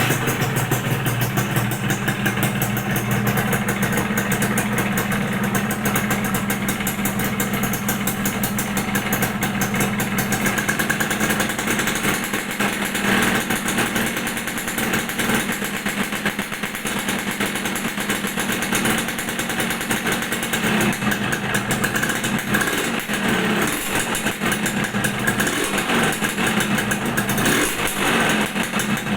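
Suzuki Satria two-stroke motorcycle engine running steadily through its stock exhaust, a single-cylinder two-stroke holding an even, stable beat.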